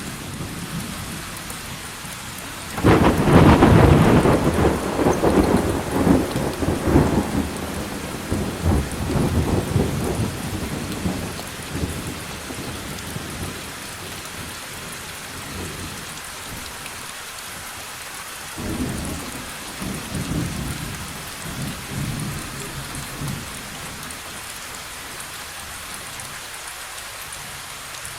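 Steady heavy rain with thunder: a loud crack-and-rumble breaks out about three seconds in and rolls away over several seconds, and a weaker rumble follows later.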